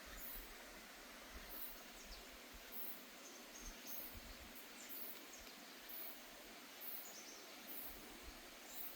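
Faint summer forest ambience: an insect repeats a short, very high chirp about once a second over a steady hiss, with a few faint short bird-like calls and soft low thumps.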